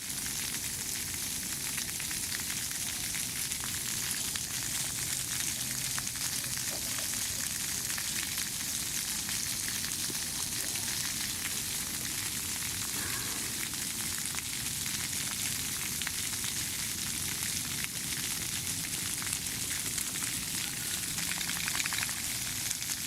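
Steady hiss of water spraying from a dog wash's jets.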